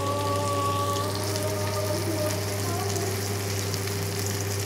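Sliced onions frying in hot cooking oil in a pot, a steady sizzle with fine crackling.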